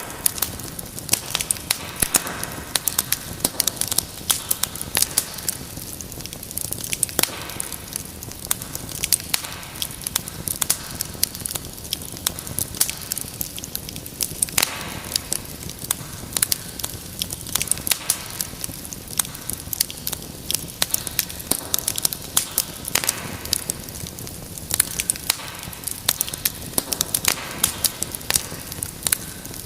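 Wood fire in a fireplace crackling, with many small irregular pops and snaps over a low steady sound of flames.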